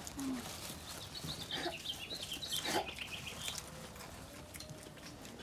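A bird chirping a quick run of short, high notes for about two seconds, starting about a second in, with a few faint clicks.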